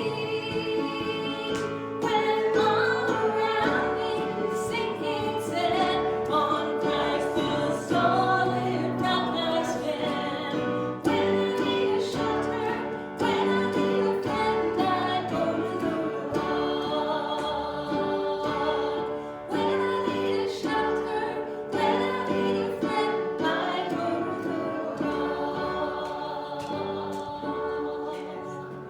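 A group of voices singing a worship song with instrumental accompaniment, the sound easing off towards the end.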